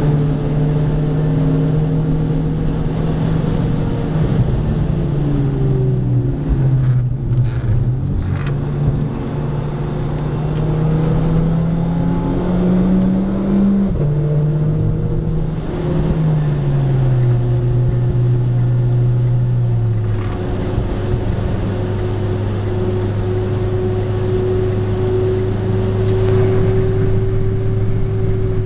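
Renault Clio RS IV's turbocharged four-cylinder engine driven hard. The pitch climbs and drops several times as the car shifts gears and slows: a sharp drop about halfway through, then a falling pitch. For the last third it holds at one steady pitch.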